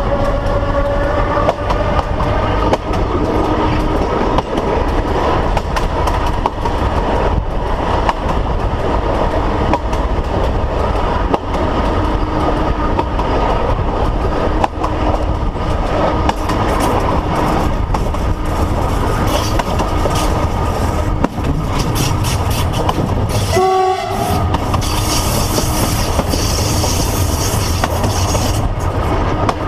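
Train running along the track, heard from the locomotive cab: a steady rumble with frequent clicks of the wheels over rail joints. A high hiss sounds for a few seconds near the end.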